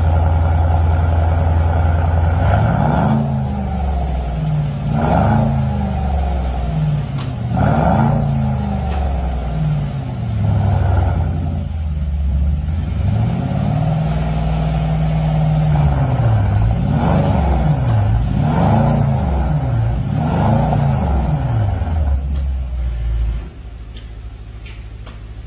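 Mercedes-Benz W223 S580's twin-turbo V8 through a valved aftermarket full exhaust, being free-revved about nine times in a row, each rev rising and falling, with one held longer in the middle. It then settles back to idle and drops noticeably quieter near the end.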